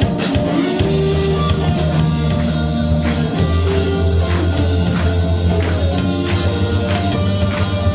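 Rock band playing live: drum kit keeping a steady beat of about two hits a second under bass and guitar.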